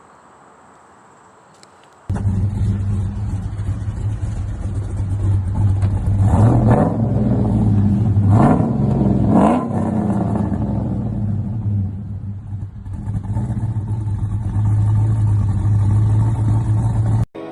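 Chevy Avalanche's 6.2 L LS V8 with a stage 4 BTR camshaft, idling and revved three times in quick succession. The engine sound comes in suddenly about two seconds in.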